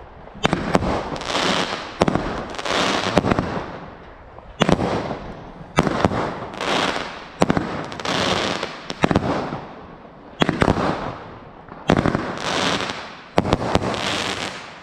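Consumer fireworks firing shot after shot, about every one to two seconds. Each shot is a sharp bang followed by about a second of hissing crackle.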